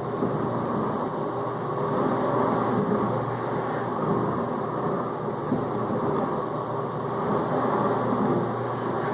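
Whirlpool dishwasher in the circulation phase of its final rinse: the wash pump running steadily and spraying water through the tub, with a steady low motor hum under the water noise.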